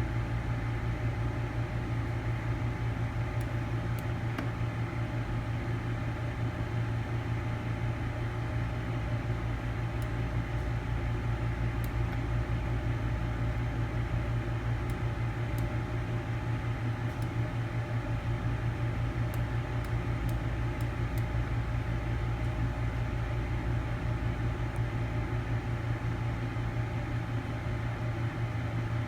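Steady low hum of a running fan or small motor, with a faint higher tone above it and no change in pitch or level.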